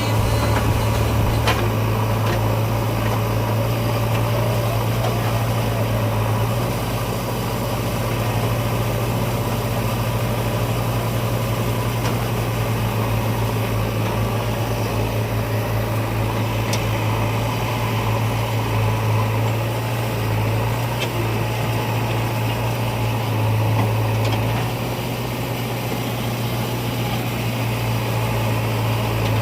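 Mahindra 4x4 tractor's diesel engine running steadily with a low, even hum, with a few faint clicks.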